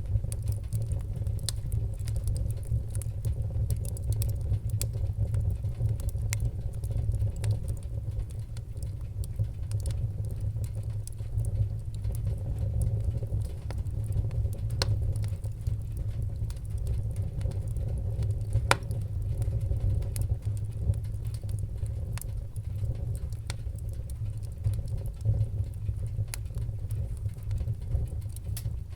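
Wood fire burning in a fireplace: a steady low rumble of flames with scattered sharp crackles and pops, one louder pop a little past halfway.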